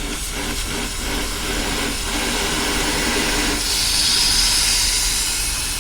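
Nitrogen hissing out of a leaking air-conditioning hose by the high-side fitting on a John Deere 350 excavator, with the system pressurized for a leak test: a pretty big leak. The hiss runs over a steady low hum and grows louder and higher about three and a half seconds in.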